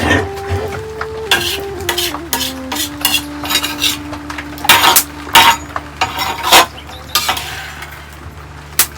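Metal utensils clinking and scraping against pots and dishes, with a string of sharp knocks, loudest about halfway through and again a little later. A soft, slow melody is held underneath.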